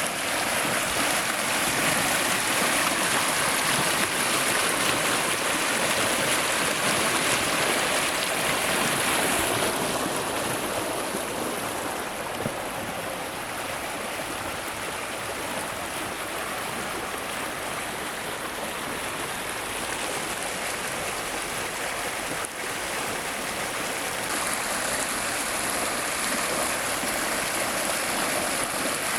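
Mountain river flowing over rocks: a steady rush of water. It turns softer and less bright about ten seconds in, and brightens again near the end.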